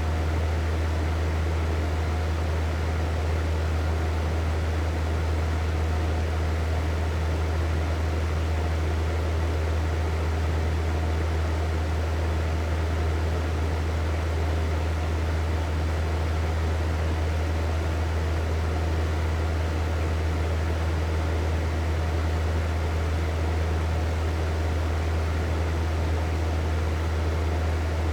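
Hair dryer running steadily: an even rushing hiss of blown air over a strong, deep motor hum, with no change in speed.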